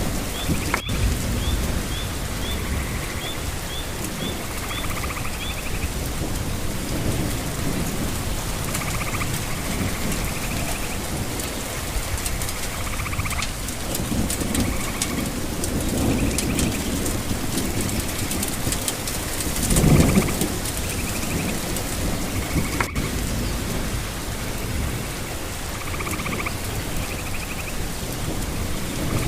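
Steady rain falling, with low rumbles of thunder swelling and fading, the loudest about two-thirds of the way through. A bird chirps in a quick series over the first few seconds.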